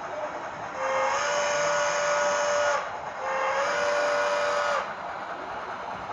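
Digital sound decoder in an HO scale Santa Fe steam locomotive model blowing its steam whistle twice, two long blasts each lifting slightly in pitch just after it starts, over the steady running sound of the train. Two long blasts are the railroad signal to proceed.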